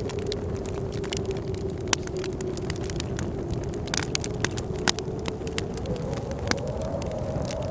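Wood fire crackling with frequent sharp pops, over the steady rush of blizzard wind that holds one moaning pitch, wavering and rising slightly near the end.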